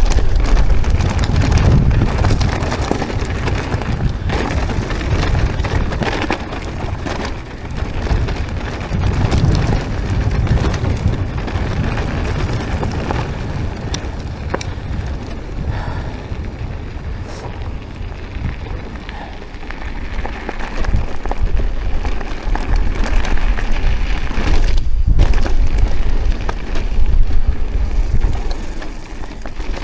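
Mountain bike riding a rough dirt trail, recorded on the bike or rider: a steady wind rumble on the microphone, with tyres crackling over loose ground and frequent rattling clicks from the bike.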